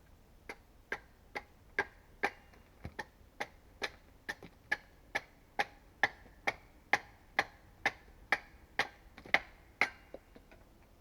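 A tool striking wood in a steady rhythm, a little more than two sharp knocks a second, about twenty in a row, getting louder after the first few and stopping just before the end.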